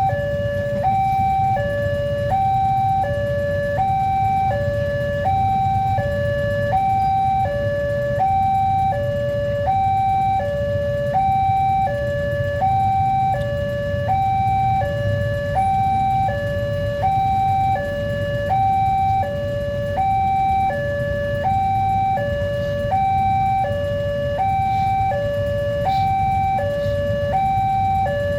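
Level crossing warning alarm sounding a steady electronic two-tone, alternating between a higher and a lower note about every 0.7 seconds, over a constant low rumble.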